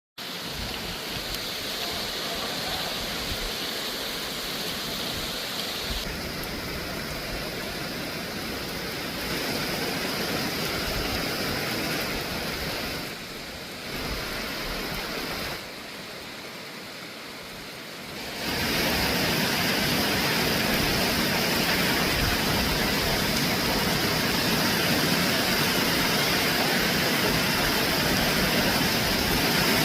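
Heavy rain pouring down in a steady hiss, heard in several short stretches that change abruptly in level, loudest from about two-thirds of the way through.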